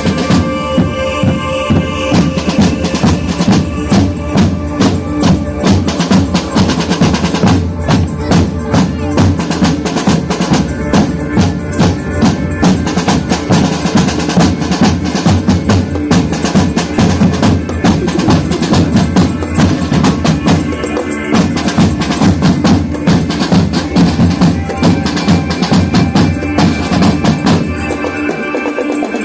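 Marching band playing, with dense, rhythmic drumming under a melody of pitched instruments. The drums drop away about a second before the end.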